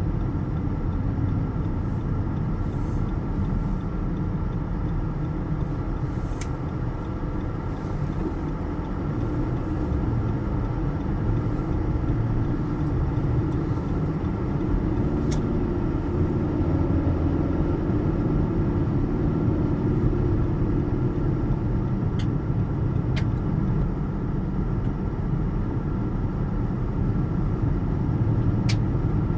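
Car interior noise while driving: a steady low engine and road rumble, with an engine note that wavers a little midway and a few faint sharp clicks.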